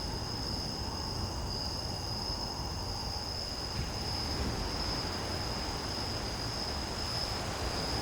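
Crickets chirring steadily in one continuous high note, over a low, even rumble.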